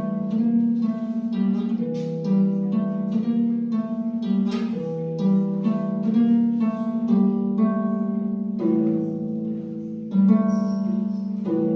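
Solo harp playing a Chinese folk melody: a steady run of plucked notes ringing over sustained low bass notes.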